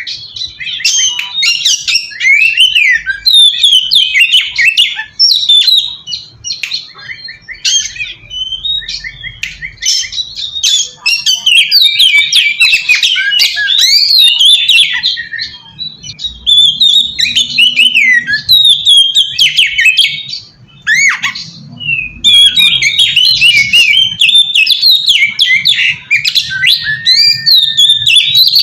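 Oriental magpie-robin in full song: a loud, fast, unbroken run of varied whistled phrases and sharp notes. It softens for a few seconds about a quarter of the way in and pauses briefly about two thirds in. This is the rival-calling song that provokes other magpie-robins to answer.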